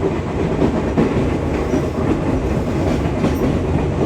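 Fujikyu 6000 series electric train, a field-added-excitation-controlled ex-JR 205 series set, running along the track: a steady rumble of wheels and running gear with some clickety-clack from the rails.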